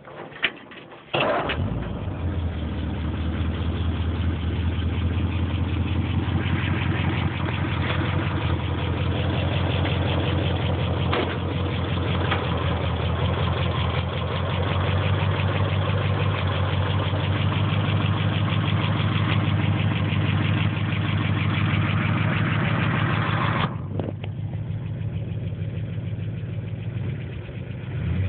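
1932 Ford truck's engine starting about a second in, then idling steadily. Near the end the sound suddenly turns duller and more muffled while the engine keeps running.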